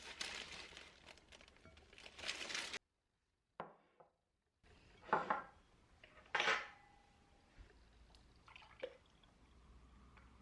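Liquid pouring for a couple of seconds, then after a short gap a few separate knocks and clinks of kitchenware, one with a brief ringing tone.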